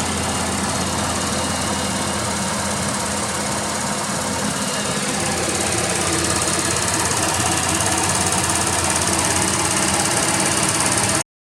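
Toyota Mark X 250G's HKS-supercharged 2.5-litre V6, breathing through an HKS muffler, idling steadily with an even engine drone. The sound cuts off abruptly near the end.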